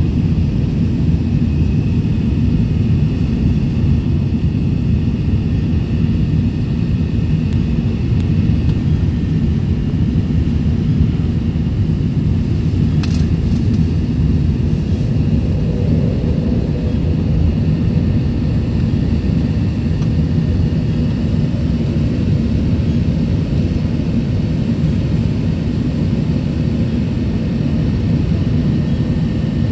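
Steady low rumble of an Airbus A380's four jet engines and rushing air, with one brief click about thirteen seconds in.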